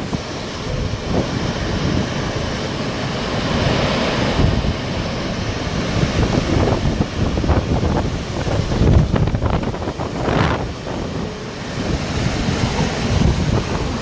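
Hurricane wind blowing hard in rising and falling gusts, with low rumbling buffets on the microphone; the filmer takes it for the arrival of Hurricane Ida's eye wall.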